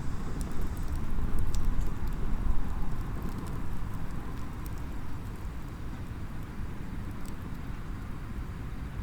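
Small wood fire crackling in a mini fire stand, scattered sharp pops and ticks, over a steady low rumble that swells for a couple of seconds about a second in.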